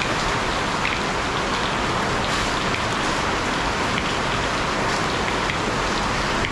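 Heavy rain falling steadily, with a few louder drop hits.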